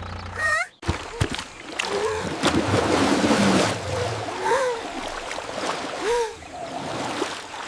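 A steady low engine hum cuts off under a second in. Water splashing and sloshing follows, loudest a couple of seconds in, with a few short rising-and-falling vocal sounds.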